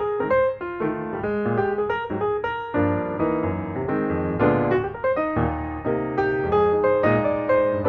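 Piano music with quick running notes, several a second.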